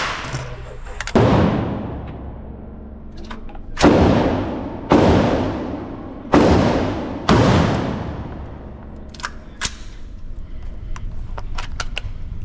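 Five loud gunshots, unevenly spaced over about six seconds and each with a long echoing tail, followed by fainter sharp cracks near the end.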